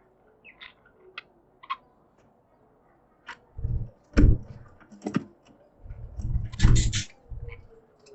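Pet budgerigars chirping in short, sharp calls. Several louder bursts of rustling and knocking in the cage come in the middle and near the end.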